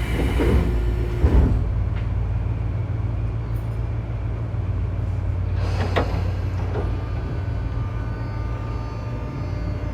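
Tobu 9000-series train's armature-chopper control gear, heard from inside the car directly above it, with a steady low hum and faint tones, a louder rush of noise in the first second or so and a sharp click about six seconds in. Near the end the chopper's tone starts rising steadily in pitch as the train moves off from a station. This car's chopper is known for an abnormal noise.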